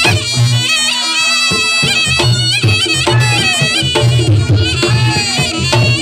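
Reog Ponorogo music: a slompret (Javanese double-reed shawm) plays a reedy melody with bending, sliding notes over a steady low drum pulse. The drums drop out for about a second near the start, then come back in.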